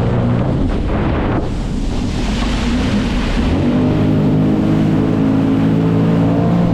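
Jet ski engine running under way, with water rushing and wind on the microphone. About a second and a half in, a rush of spray and water hiss covers the engine for about two seconds, then the engine note comes back steady.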